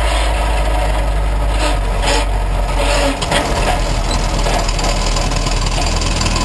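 Ginetta Junior race car's engine idling, heard from inside the cabin, with a few short clatters about two and three seconds in.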